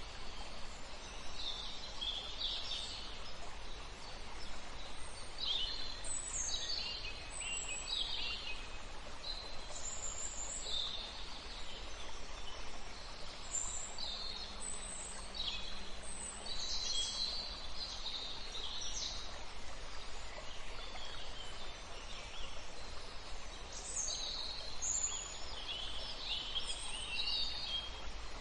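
Songbirds singing short, high phrases one after another, some overlapping, over a steady outdoor hiss.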